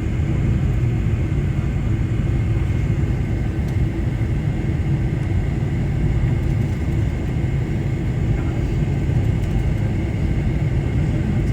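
Boeing 747-400 heard from inside the cabin: a steady low rumble of engines and airflow, with a faint steady whine above it.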